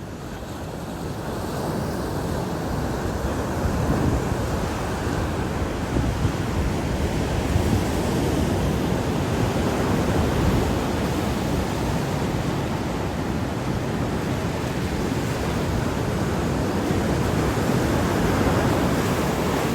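Ocean surf washing onto a beach, a steady rushing that builds over the first few seconds, with wind buffeting the microphone.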